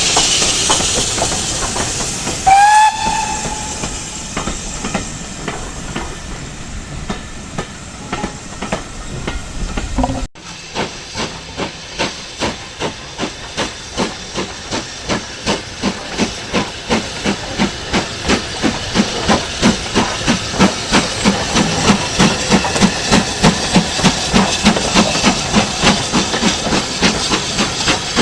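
Steam locomotive: steam hissing, then one short whistle blast. After a sudden break, the exhaust chuffs of a steam locomotive pulling away, the beats quickening steadily and growing louder.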